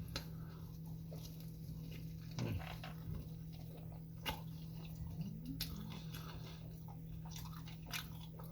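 Biting into and chewing a fried chicken sandwich: scattered soft crunches and mouth clicks over a steady low hum.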